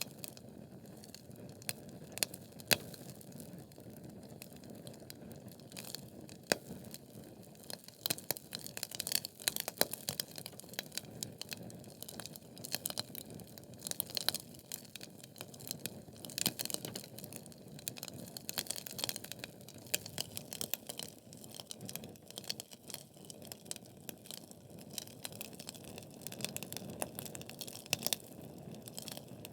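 Wood logs burning in a fireplace: a steady low rush of flame with irregular sharp crackles and pops, more frequent from about eight seconds in.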